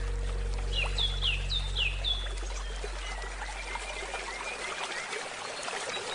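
Running river water with a bird giving four quick falling chirps about a second in, and a low musical tone dying away over the first few seconds.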